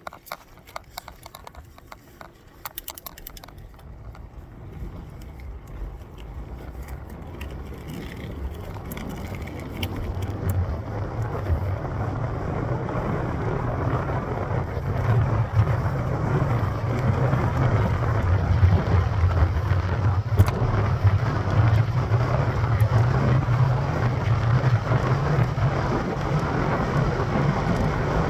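Wind and tyre noise of a mountain bike ride, building over the first dozen seconds as the bike gathers speed and then holding steady, with a few sharp clicks near the start.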